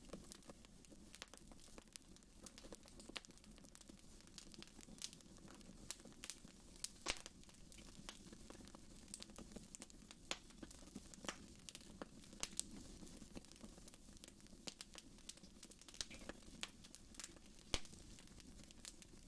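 Wood fire in a fireplace crackling: irregular sharp pops and snaps over a low, steady rumble of the flames, with the loudest pops about seven seconds in and again near the end.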